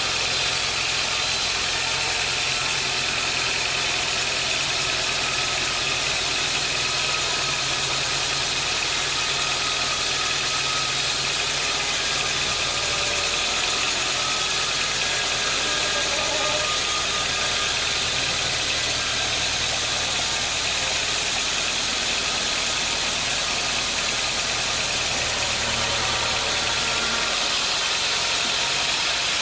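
Sawmill machinery running steadily: a constant motor hum under a hiss, with the low hum shifting slightly near the end.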